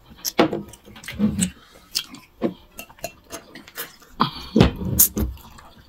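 Close-miked eating: wet chewing, smacking and lip clicks as food is eaten by hand. About four seconds in, a short pour of spirit from a bottle into a glass, followed by two knocks on the table.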